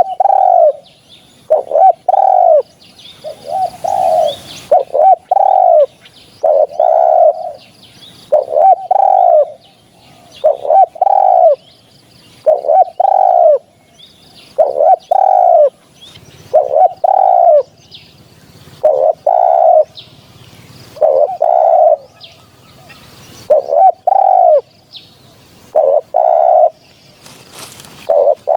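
Spotted dove cooing over and over, a hunting lure recording: groups of two or three low coo notes about every two seconds. Small birds chirp faintly in the background.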